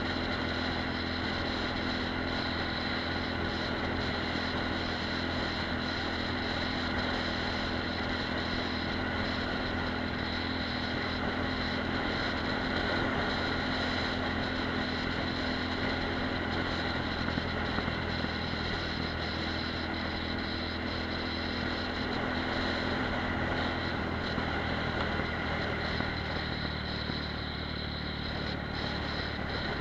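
Apollo RX250 supermoto's 250 cc single-cylinder engine running at steady revs while riding along, with wind and road noise. The pitch holds level, with no shifts or revving.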